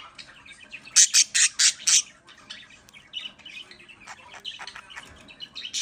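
Young budgies squawking and chirping: a quick run of about five loud, harsh squawks about a second in, then softer scattered chirps.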